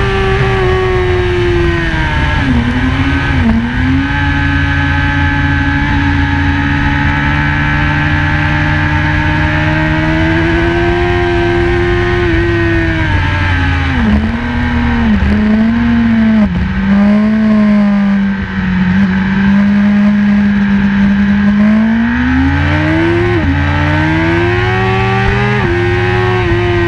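BMW S1000RR's inline-four engine at race pace on track. Its pitch falls in steps with brief blips about three seconds in and again midway, as on braking with downshifts. It holds steady for long stretches, then climbs hard near the end, broken by two quick upshifts.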